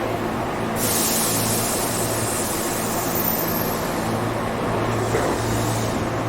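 Tobu 8000 series electric commuter train running between stations, heard from inside the car: a steady rumble of wheels on rail with a low motor hum that comes and goes. Just under a second in, a hiss of high noise sets in suddenly and fades out about five and a half seconds in.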